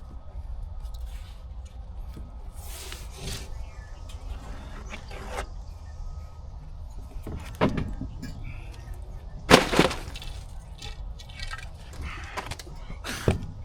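Three sharp knocks or clatters a few seconds apart, the second the loudest, over a steady low rumble.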